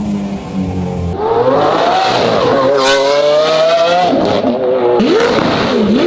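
Lamborghini Aventador's naturally aspirated V12 with a race exhaust revving hard. The pitch climbs for about three seconds, falls away, then gives a quick dip-and-rise blip near the end.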